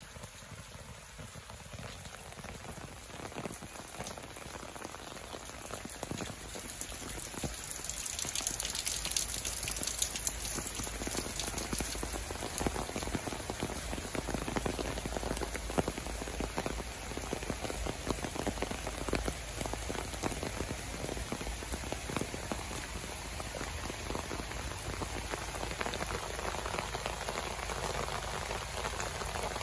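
Heavy rain falling steadily on leaves, paving and waterlogged, puddled ground: a dense patter of drops that grows louder about eight seconds in.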